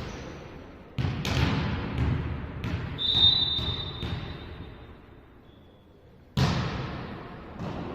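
Volleyball play in a sports hall: several sharp, echoing smacks of the ball being hit and landing, then a referee's whistle blown once, a single steady shrill tone of about a second that dies away, followed by another hard smack near the end.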